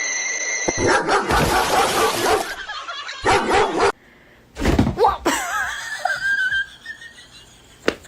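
A dog yipping and whining, with high, wavering whines in the second half.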